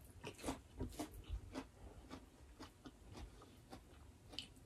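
Faint, close-miked chewing: irregular soft wet clicks and smacks of people eating mouthfuls of rice and curry.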